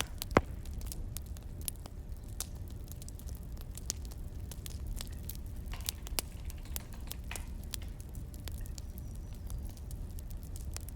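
Wood fire crackling: irregular sharp pops and snaps over a low, steady rumble, with one louder pop about half a second in.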